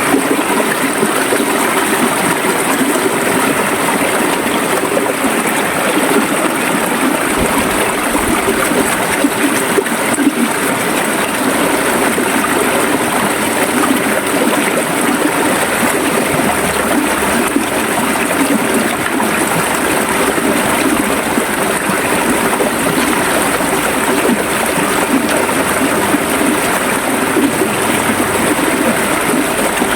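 A river's water running steadily over rocks, a continuous rushing and gurgling.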